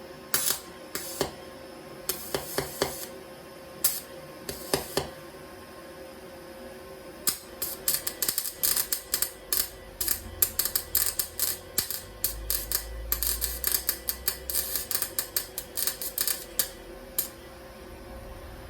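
Wire-feed welder's arc crackling and popping in irregular, stop-start bursts: a few short spurts, then a longer dense run of crackle that fades out near the end. The uploader puts the stuttering down to a wire feed that keeps catching.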